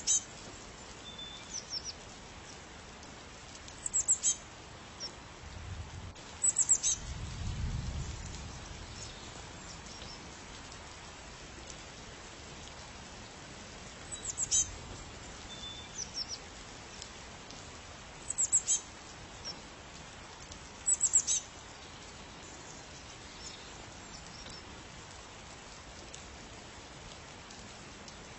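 A bird giving short, high chirps in small clusters every few seconds over a steady background hiss, with a brief low rumble about seven seconds in.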